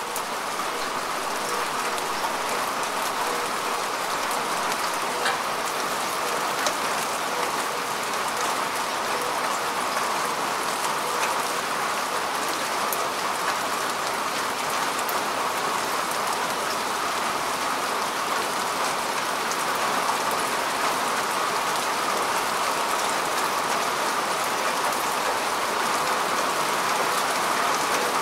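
Steady rain falling on grass and earth: an even hiss of many drops, with scattered sharper single-drop ticks.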